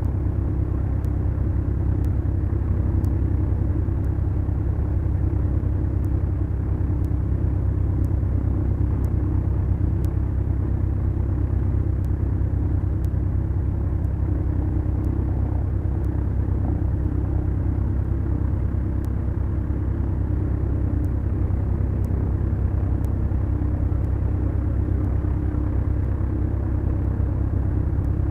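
The Beechcraft Duchess's twin Lycoming O-360 engines running with a steady, even drone, heard from inside the cabin.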